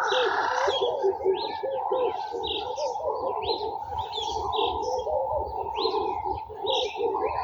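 Many garden birds calling at once. Short high chirps repeat over a dense, constant mass of lower, overlapping calls.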